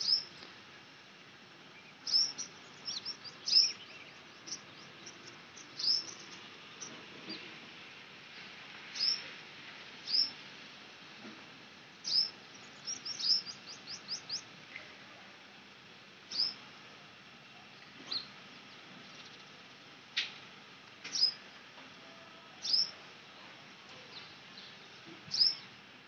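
Small birds chirping: short, sharp, high notes that fall in pitch, some single and some in quick runs of several, every second or two over faint background noise.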